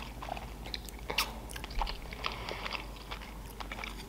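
A person chewing a mouthful of sushi close to the microphone: soft wet smacks and small irregular mouth clicks.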